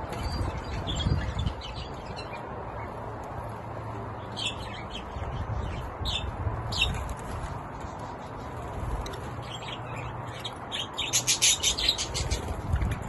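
Budgerigars chirping now and then, breaking into a burst of rapid chattering near the end, over a steady low rumble of wind on the microphone.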